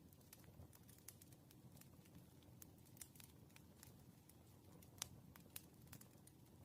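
Faint wood fire burning: irregular sharp crackles and pops over a low rumble, the loudest pop about five seconds in.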